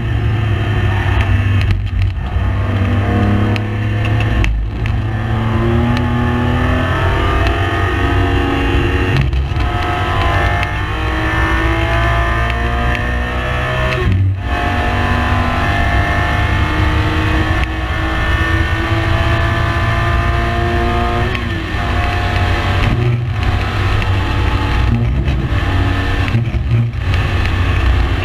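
Race car engine running hard on track. Its pitch climbs steadily, then drops back sharply at several short breaks.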